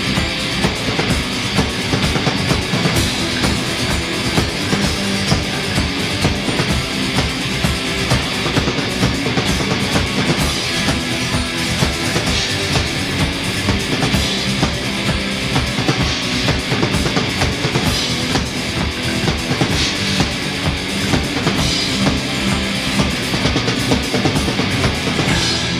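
Rock band playing an instrumental passage with no singing: drum kit keeping a steady beat under electric guitar and bass.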